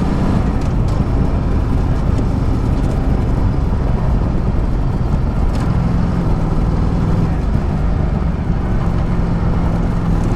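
Ducati Multistrada 1200's L-twin engine running steadily while riding, under heavy, even wind and road noise.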